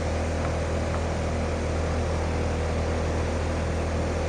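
Outdoor air-conditioning condenser unit running: a steady hum from the compressor with the even rush of its fan.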